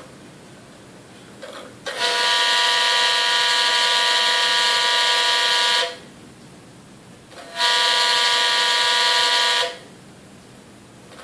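DJI Zenmuse H3-3D gimbal giving off a loud, steady horn-like buzzing tone twice, first for about four seconds, then again for about two seconds. This is the abnormal noise from the gimbal, a sign that something is wrong with it.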